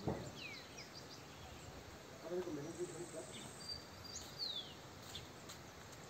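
Small wild birds chirping: a few short, falling high calls and a brief whistle, with faint voices in the background and a soft thump at the very start.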